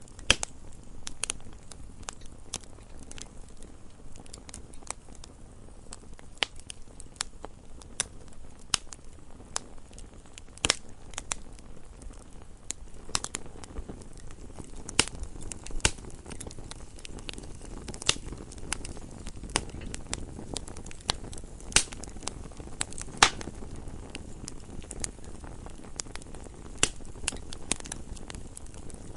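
Wood fire burning in a fireplace, crackling with irregular sharp pops and snaps over a low, steady rush of the flames.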